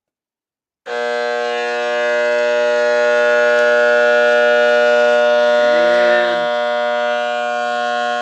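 Rewound microwave oven transformer humming loudly under mains power, a steady electrical buzz that starts suddenly about a second in and holds.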